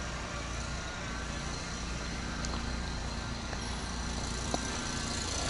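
Steady low rumble of road traffic, growing slightly louder near the end.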